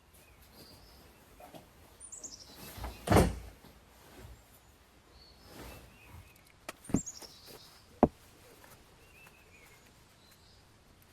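Small woodland birds chirping, with two quick descending trilled calls. A few handling thumps and knocks come in between: a loud dull one about three seconds in and a sharp knock about eight seconds in.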